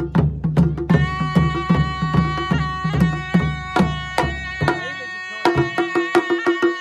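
Balti harip folk music: drums beating a steady rhythm, joined about a second in by a surnai (shawm) playing a sustained melody. Near the end the deep drum strokes drop away, leaving a lighter drum pattern under the surnai.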